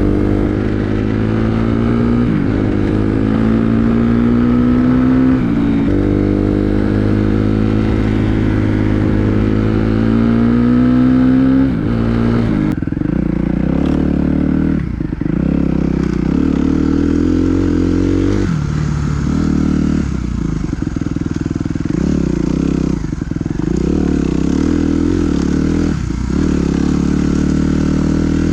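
Dirt bike engine pulling hard through the gears: the engine note climbs, drops suddenly at an upshift, climbs again twice, then settles to a lower, uneven note as the throttle is repeatedly closed and reopened.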